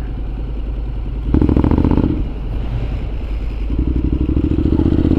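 Motorcycle engine running, revved up briefly about a second and a half in, then running steadily again.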